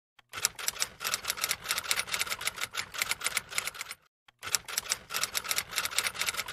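Typewriter typing sound effect: rapid keystroke clicks, about ten a second, in two runs with a short break about four seconds in.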